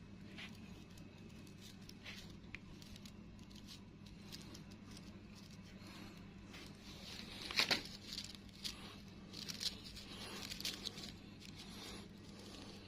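Rustling and crinkling handling noise with scattered small clicks, busiest and loudest from about seven to eleven seconds in, over a low steady hum.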